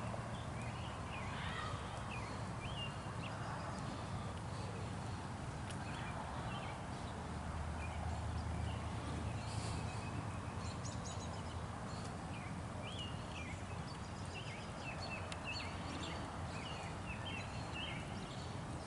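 Birds chirping in scattered runs of short, high chirps, some close together, with pauses between the runs. A steady low hum runs underneath.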